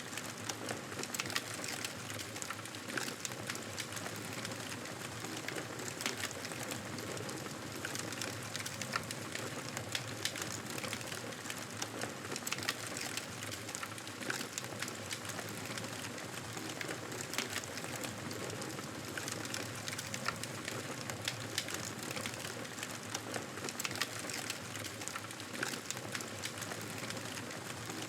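Wood fire crackling in a fireplace: a steady hiss with many irregular small pops and snaps.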